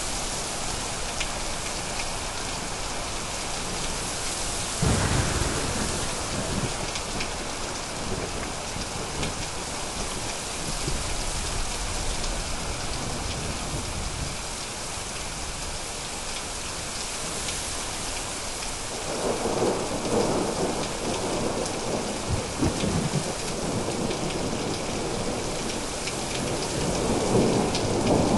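Steady heavy rain with thunder. A sharp crack comes about five seconds in, and long rolling rumbles build from about two-thirds of the way through and swell again near the end.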